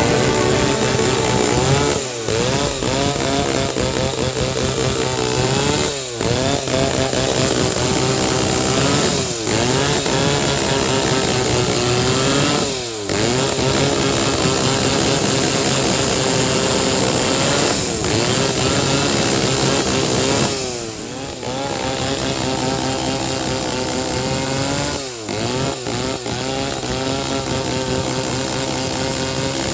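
Two-stroke chainsaw running hard while cutting timber. Every few seconds its engine note dips briefly and picks up again.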